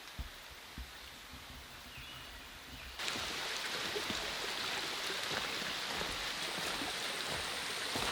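Rain in a forest: a few scattered heavy drops knocking at first, then about three seconds in a sudden jump to a steady, loud hiss of rain with many small drop ticks.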